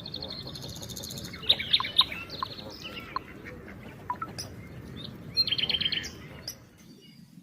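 Songbirds chirping and singing, a mix of short sweeping notes and rapid trills, over a steady background hiss. The busiest bursts of song come about one and a half seconds in and again near the six-second mark, then it falls quiet briefly near the end.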